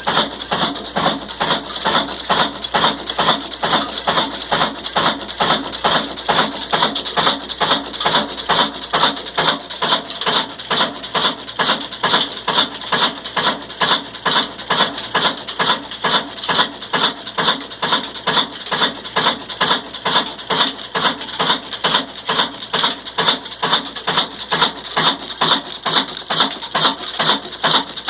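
Old Ruston Hornsby single-cylinder diesel engine running steadily under load driving a stone flour mill, its beat even at several strokes a second over a steady high hiss.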